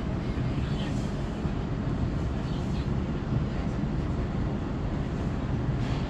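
Qingdao Metro Line 8 train running between stations, heard from inside the car as a steady low rumble of wheels on rail and running gear.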